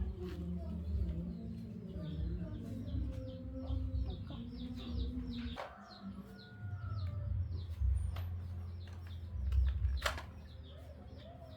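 Chickens clucking and chirping, with many quick falling chirps, over a low steady rumble and a few sharp knocks.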